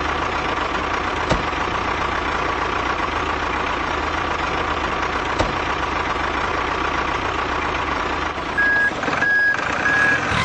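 Truck engine running steadily, with a reversing alarm beeping three times near the end.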